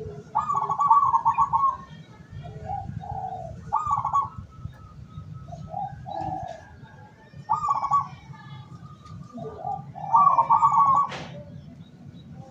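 Zebra doves cooing: repeated phrases of a quick rattling trill followed by lower rounded coos, four phrases about three seconds apart. A sharp click comes near the end.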